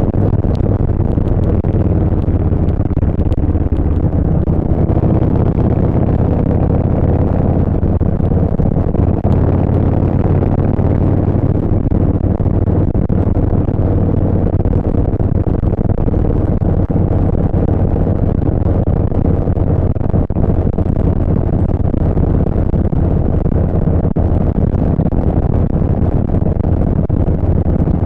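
Harley-Davidson Street Bob 114's Milwaukee-Eight V-twin running steadily at cruising speed through a Vance & Hines Short Shots full exhaust.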